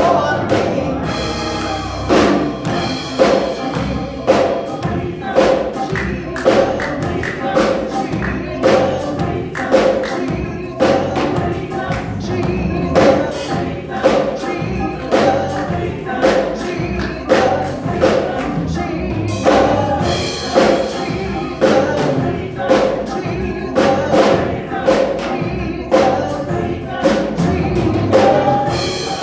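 Gospel choir singing over a steady percussive beat.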